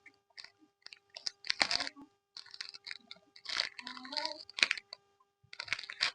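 Close-miked chewing of Yupi candy, with crunching in repeated short bursts.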